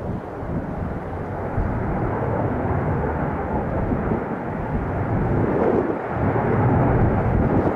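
Airbus A380 jet engines on landing: a broad rumble with no clear tone that builds steadily louder.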